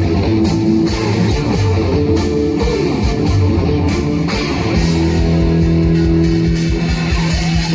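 Instrumental trot backing track (MR) playing over a PA, led by guitar over a steady bass, with a long held note in the second half.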